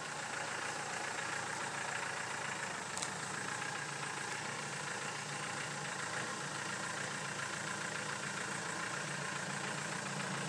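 Land Rover Defender's engine idling steadily as the vehicle crawls slowly down over rocks, with one faint click about three seconds in.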